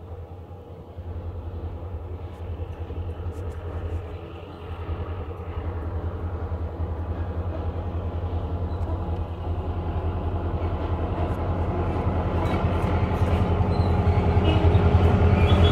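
Diesel-electric locomotive engine approaching at low speed, a steady low drone that grows steadily louder as it nears.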